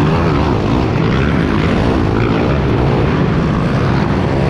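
Kawasaki KLX140 pit bike's single-cylinder four-stroke engine running hard on track, revving up and down as the throttle is worked, with wind rushing over the microphone.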